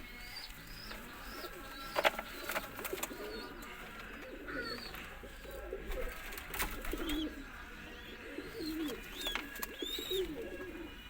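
Domestic pigeons cooing in low, wavering calls, with repeated short high peeps of pigeon chicks over them. A few sharp clicks or knocks, the loudest about two seconds in.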